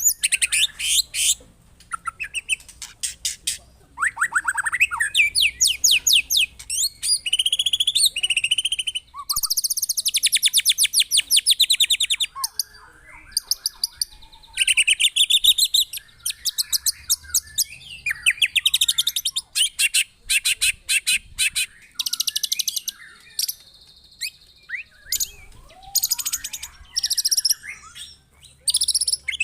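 White-rumped shama (murai batu) singing a loud, varied song. Phrase follows phrase with only short breaks: fast rattling trills of rapid-fire repeated notes and high sliding whistles. This is the harsh 'rough shot' style of a shama in full song.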